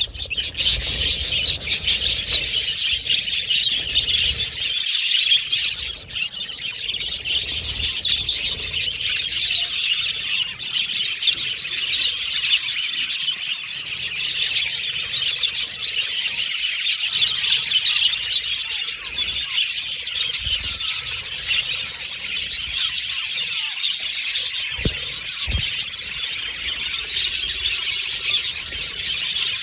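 A flock of budgerigars chattering and chirping, many birds at once in a dense, continuous twitter.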